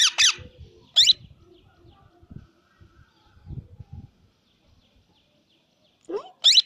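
Plum-headed parakeet calling with shrill, sliding calls: the end of a fast run of calls at the start, a single call about a second in, and two more near the end, the first rising in pitch. Faint low knocks in the quiet stretch between.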